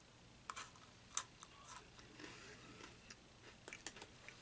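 Crunching bites and chewing on a cookies and cream Pocky biscuit stick: several short, sharp crunches, the loudest about a second in and a quick cluster near the end.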